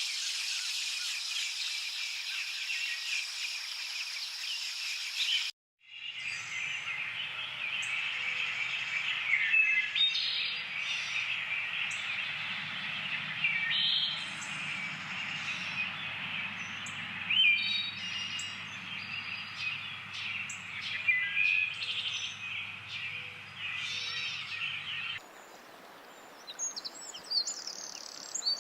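Recorded outdoor ambience of small birds chirping and singing in many short calls over a steady background hiss. The track cuts abruptly twice as the clips change.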